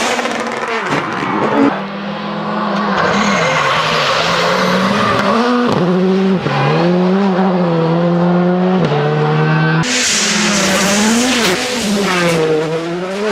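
Rally car engines at full throttle, revs climbing and dropping repeatedly through gear changes and lifts, with sharp crackles near the start. The sound changes abruptly a few times, and from about ten seconds in a loud hiss of noise joins the engine.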